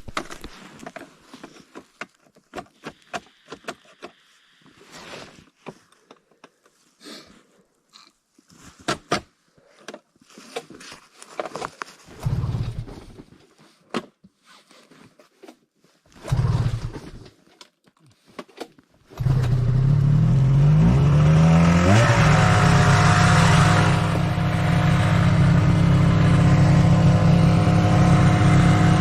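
Scattered clicks and scrapes, then two short low engine bursts. About two-thirds of the way through, a snowmobile engine starts and runs steadily and loudly, with a brief rev a few seconds after it catches and rising revs at the very end.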